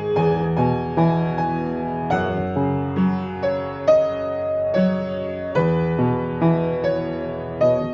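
Solo piano playing a slow, gentle melody over chords, with a new note or chord about every half second.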